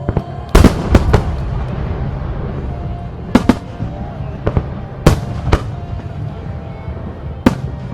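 Aerial firework shells bursting in a musical fireworks show: about ten sharp bangs at uneven intervals, some in quick pairs, over music playing throughout.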